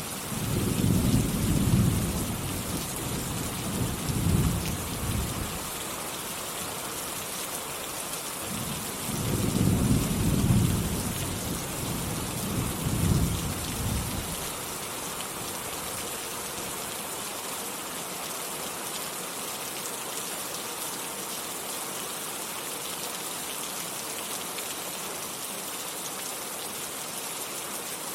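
Steady rain with two long rolls of rumbling thunder, the first at the start and the second about nine seconds in, each fading out after several seconds; after that, rain alone.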